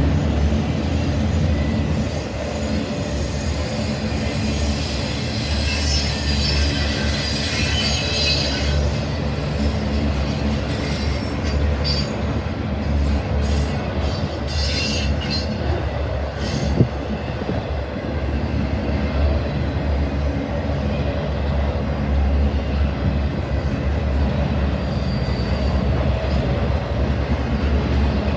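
Intermodal freight train of trailer-carrying flatcars rolling past close by: a steady rumble of wheels on rail. A high wheel squeal runs from about four to nine seconds in, and there is a single sharp clank a little past the halfway point.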